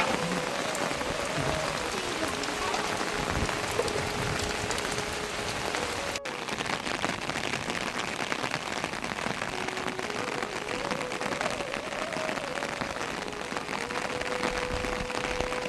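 Steady rain falling, an even hiss, with a faint thin tone held and stepping up and down in pitch behind it.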